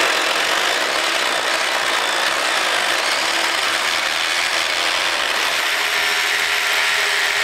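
A power tool running continuously with a dense, even rattle.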